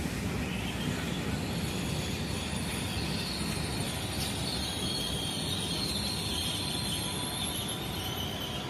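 Train running along a station platform: a steady low rumble, with a high-pitched squeal from the wheels or brakes coming in about three seconds in.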